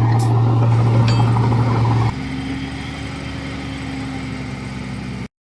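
Heavy earthmoving machine's diesel engine running with a steady low drone. About two seconds in it drops suddenly in level and carries on quieter, then cuts off briefly near the end.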